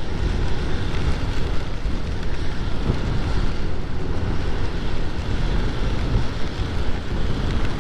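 Wind rushing over the camera's microphone on a moving Honda Navi, with the small single-cylinder engine running steadily underneath and tyres on a wet road.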